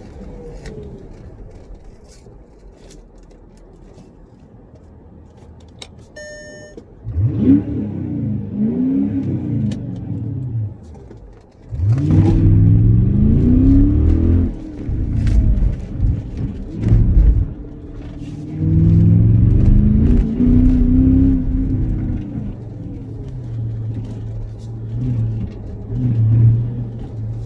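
Mercedes ML500's 5.0-litre V8 through 6.3 AMG exhausts, running quietly at first. About seven seconds in it is revved hard several times, the pitch climbing and falling with each rev, then it settles to a steadier, lower drone near the end.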